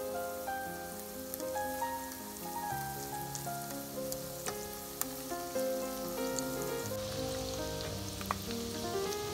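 Flour-and-cornstarch-coated chicken pieces sizzling as they fry in hot oil in a pan, with a few sharp pops and clicks. Soft background music with held notes plays over it.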